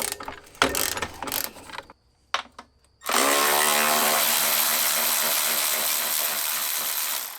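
Loosening an exhaust hanger bolt: a second or two of ratchet clicks, then from about three seconds in a power tool's motor runs steadily for about four seconds, its pitch sagging slightly under load, and stops.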